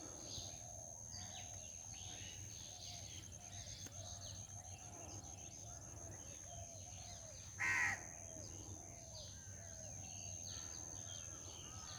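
Birds chirping steadily in the background, with one loud crow caw about eight seconds in. A steady high whine runs under it all.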